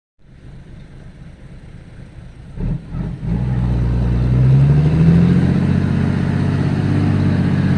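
A motor vehicle's engine: a faint low hum, two knocks about two and a half to three seconds in, then the engine runs much louder, its pitch rising about four seconds in before it settles steady.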